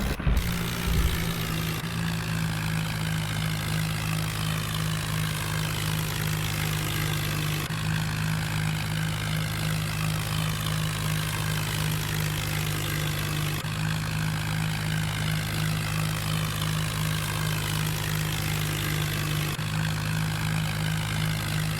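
Tractor diesel engine running at a steady speed, a constant low drone with no revving.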